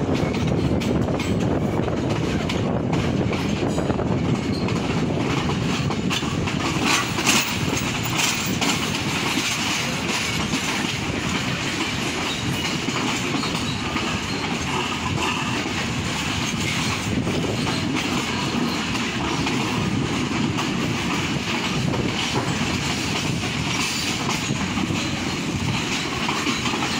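Passenger train running along the line, heard from an open carriage door: a steady rumble and rattle of the wheels on the rails, with occasional louder clicks as the wheels pass over rail joints.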